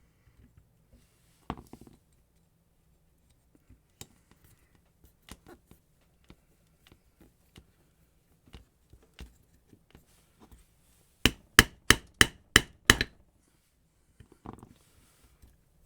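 Scattered light clicks and taps on an angle grinder's gearbox, then a quick run of seven sharp knocks, about four a second, near the end: the grease-packed gear head being tapped down onto the grinder housing while trapped grease pushes it back up.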